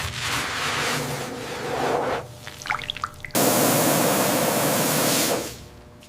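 Water spraying onto a car's bodywork, then a short pause filled with drips and small ticks. A second burst of spray starts abruptly about three seconds in, runs evenly for about two seconds and fades away.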